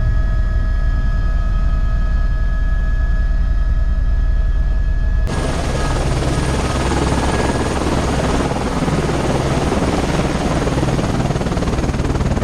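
Helicopter running: a steady low rotor beat with a thin turbine whine. About five seconds in, the sound switches suddenly to a louder, even rushing noise.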